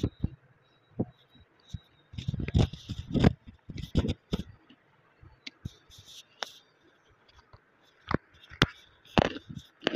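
Close-miked chewing of a hard chunk of dry clay: irregular crunches and gritty clicks with low thuds from the jaw, busiest a couple of seconds in and again near the end, with a quieter stretch in the middle.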